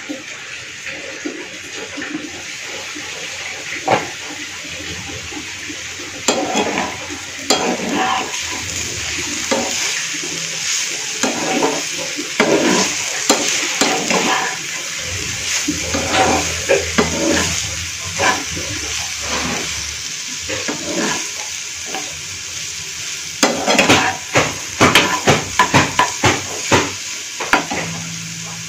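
Banana stem and potato strips frying in oil in a nonstick pan: a steady sizzle, with a spatula scraping and tapping against the pan in bursts of stirring. A single knock sounds about four seconds in.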